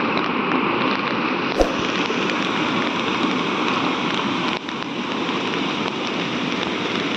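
A steady, even rush of water, with one sharp click about a second and a half in.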